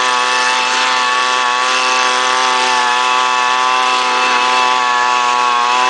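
Gas leaf blower engine running steadily at a constant high speed, with the rush of air from the blower.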